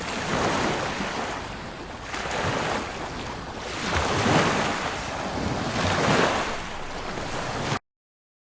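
Waves washing in with wind noise, swelling and easing about every two seconds; it cuts off abruptly shortly before the end.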